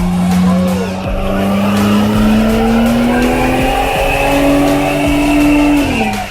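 Car engine held at high revs, its pitch climbing slowly and then dropping off sharply near the end, with tyres squealing over it.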